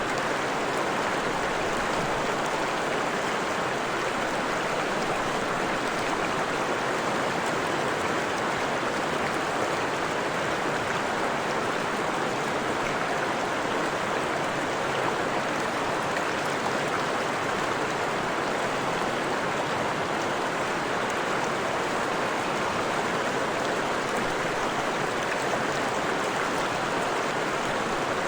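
Freshwater stream flowing, a steady, even rush of water over stones that holds constant throughout.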